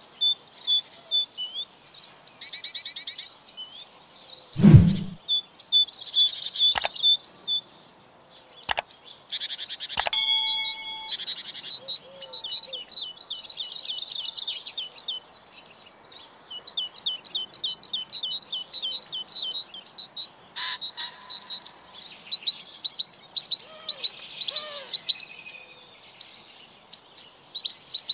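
Small birds chirping and trilling in rapid repeated phrases, with a low thump about five seconds in and a few sharp clicks.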